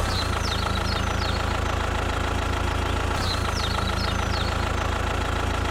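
Mini tractor's engine running steadily at idle, an even low hum with a constant whine above it, and short high chirps recurring every second or so.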